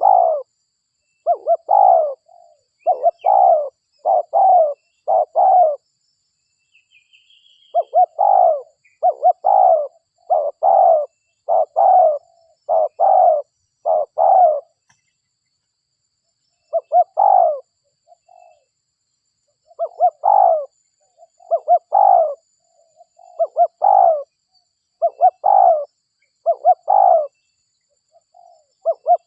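Spotted dove (derkuku) cooing over and over in runs of rapid, low coos. There are short breaks twice, and a faint higher chirp from another bird comes in the first break.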